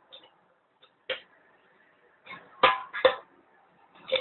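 A hammer knocking on a tin can to punch holes with a nail: about six irregular metallic knocks, two of the loudest close together past the middle.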